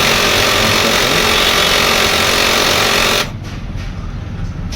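HP LaserJet M1005 MFP laser printer making a loud, steady grinding rasp ('khar khar') as its mechanism runs during the power-on warm-up, an abnormal noise; it stops abruptly a little past three seconds in as the printer comes ready.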